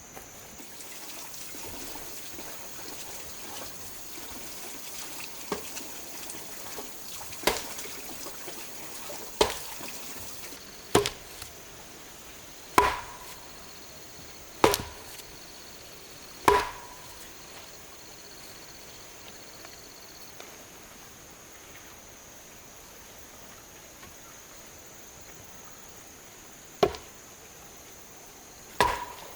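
Sharp tool blows, each with a brief ring, about one every two seconds for a run of seven, then a pause of about ten seconds and two more near the end. A steady high-pitched tone runs underneath.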